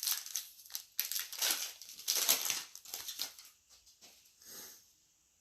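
Crinkling and rustling of a foil trading-card pack wrapper being handled, in irregular bursts that die away near the end.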